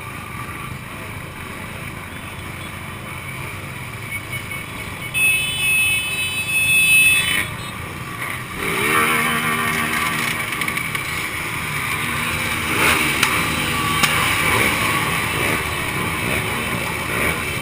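Two-stroke motorcycle engines running, with a loud steady high-pitched tone for a couple of seconds about five seconds in, then an engine revving up in rising sweeps from about eight and a half seconds in.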